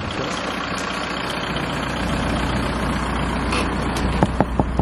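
Motor vehicle engine idling with a steady low hum, with a few quick clicks a little after four seconds in.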